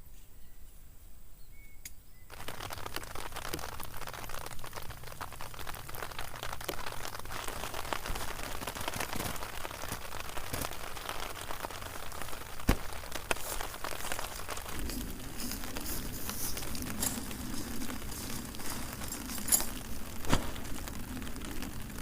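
Rain pattering, a dense crackle of drops, starting about two seconds in, with a few louder knocks scattered through it. A low steady hum joins about two-thirds of the way through.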